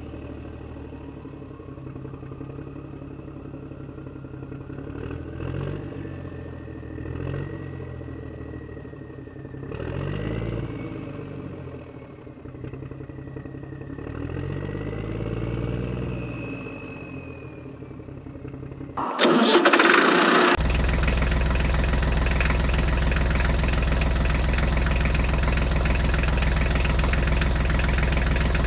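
An engine running with a few slow rises and falls in speed; about two-thirds of the way in comes a short loud burst, after which an engine runs steadily and louder.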